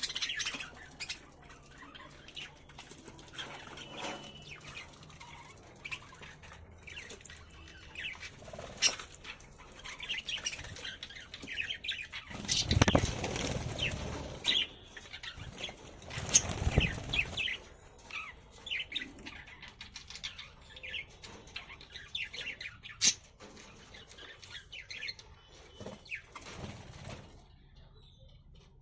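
Budgerigars chirping in many short calls, with two loud bursts of wing flapping about twelve and sixteen seconds in.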